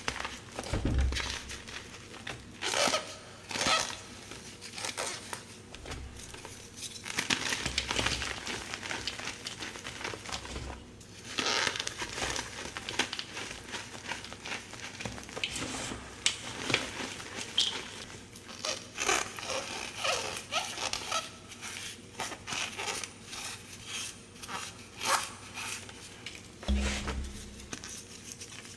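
Gym chalk slabs being crushed and crumbled by hand, in a run of irregular crunches and crackles.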